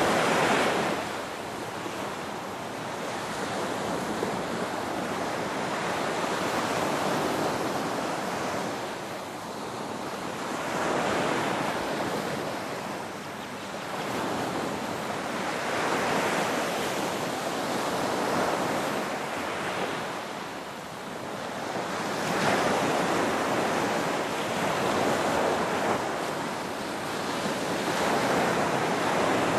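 Ocean waves, a steady rush of surf that swells and fades every four to six seconds.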